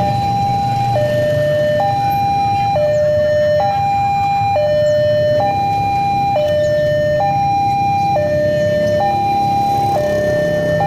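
Two-tone hi-lo siren, switching evenly between a high and a low note about once a second, over a low rumble.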